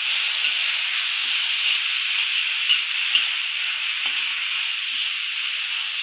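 Chopped mustard greens (sawi) sizzling in hot oil in a wok as they are stir-fried with chilli, shallot, garlic and tomato: a steady hiss, with a few light scrapes and taps of the metal spatula against the wok.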